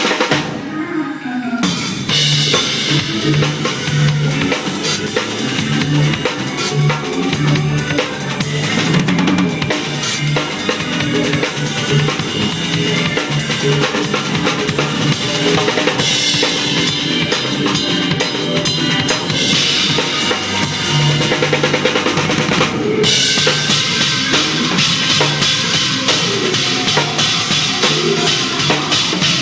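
Drum kit, with bass drum, snare and cymbals, played along with a band track that carries a bass line. The cymbals stop for about a second near the start and once more, briefly, later on.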